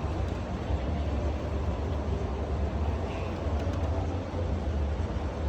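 Steady vehicle running noise: a constant low rumble with a haze of road noise over it, with no distinct events.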